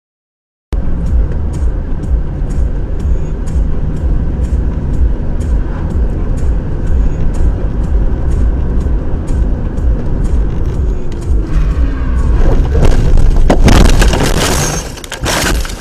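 Car on the move, heard from inside: a loud steady low rumble of engine and road noise with a regular faint ticking about twice a second. Near the end a louder rushing noise swells, then drops off sharply.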